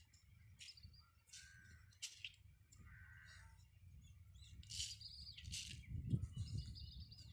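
Faint outdoor ambience of birds chirping and calling in short scattered bursts, over a low rumble that grows louder in the second half.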